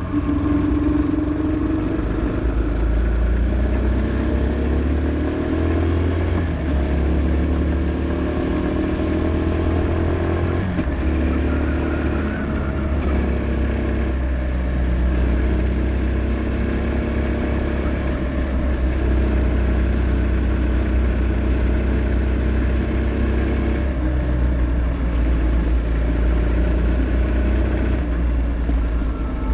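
Motorcycle engine running under way, its pitch rising and falling several times with throttle and gear changes, over a heavy low rumble.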